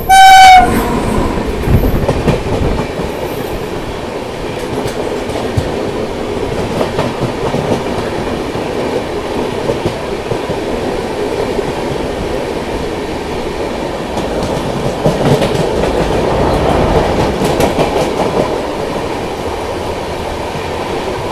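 Karnataka Express coach running at speed: a steady rumble and rattle, with wheels clacking over rail joints. Just after the start, a brief, loud, high-pitched horn-like tone is the loudest sound, and the running noise swells somewhat between about 15 and 18 seconds in.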